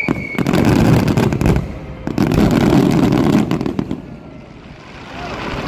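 Fireworks finale barrage: rapid booms and crackling of bursting shells in two dense volleys, with a short break about two seconds in, easing off after about four seconds. A whistling shell's falling whistle dies out just at the start.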